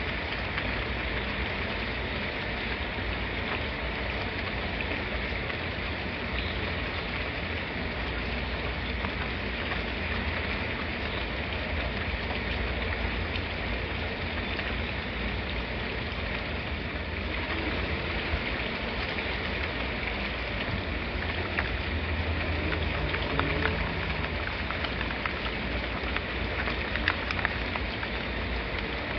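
Steady rain falling and pattering on surfaces, with a few faint drop ticks standing out near the end.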